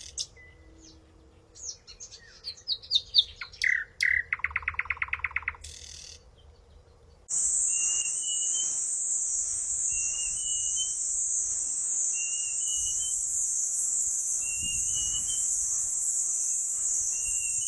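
Songbirds chirping, with a fast buzzy trill twice in the first half. About seven seconds in, the sound switches abruptly to a loud, steady, high-pitched hiss, over which a short rising chirp repeats about once a second.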